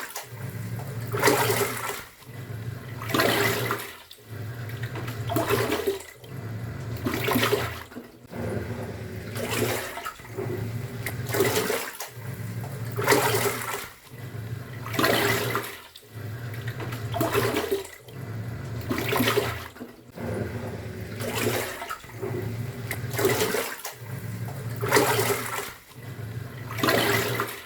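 Top-loading pulsator washing machine agitating: the motor hums for about a second and a half, stops briefly and starts again about every two seconds, each stroke sloshing the water and laundry around the drum.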